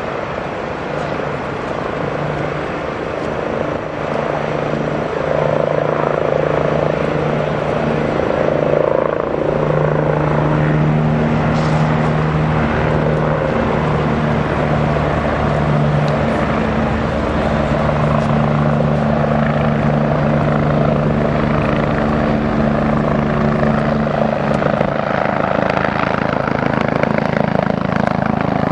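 Air ambulance helicopter running close by, its rotor and engine growing louder over the first few seconds and then holding steady.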